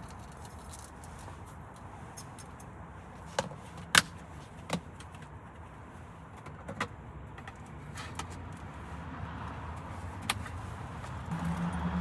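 A few sharp clicks and knocks of objects being handled, spaced irregularly over a steady background noise, the loudest about four seconds in; a low steady hum comes in near the end.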